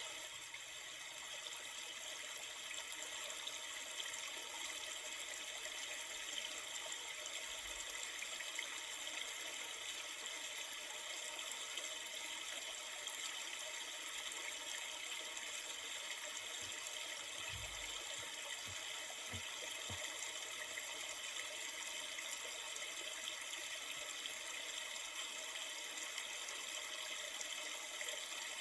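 Steady rushing and trickling of a river, an even, unbroken water sound.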